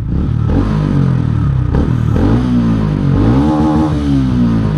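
TVS Ronin 225 motorcycle's single-cylinder engine and exhaust revved up and down several times, with a longer rise and fall in pitch about three seconds in.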